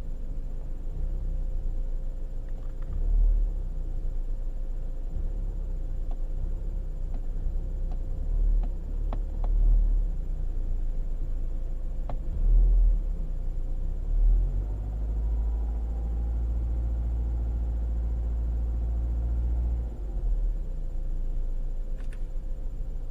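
BMW M44 1.9-litre four-cylinder engine idling roughly, its low note swelling and dipping unevenly, then running evenly for about five seconds in the second half: the rough running of a failing camshaft sensor.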